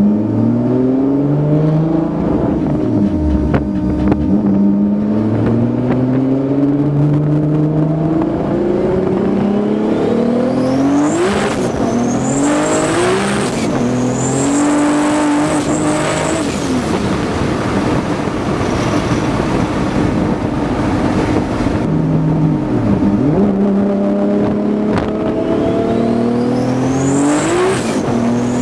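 Turbocharged engine accelerating hard through the gears. Its pitch climbs, drops at each shift and climbs again, several times over. A high whistle rises over the engine during the runs around the middle and near the end.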